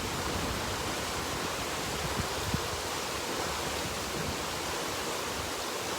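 Steady rushing noise of stormy weather outdoors as a thunderstorm approaches, even in level throughout, with no distinct thunderclap.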